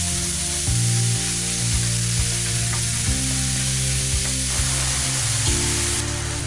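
Minced beef sizzling as it browns in a frying pan and is stirred with a wooden spoon, under background music with sustained chords that change every couple of seconds.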